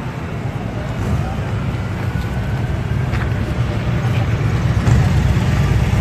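Engines of cars and vans running close by on the street, a steady low rumble that grows louder toward the end as a vehicle moves past.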